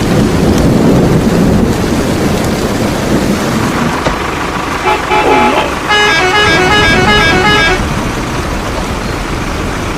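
Vehicle engine running, with a horn tooting a quick series of changing notes from about six to eight seconds in.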